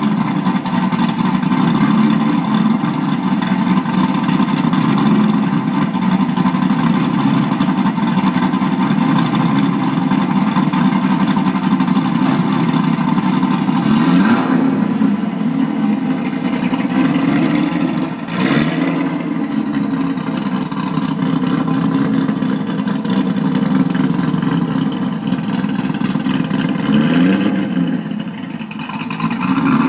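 Car engine idling steadily after a cold start, with three short revs where the pitch rises and falls: two around the middle and one near the end.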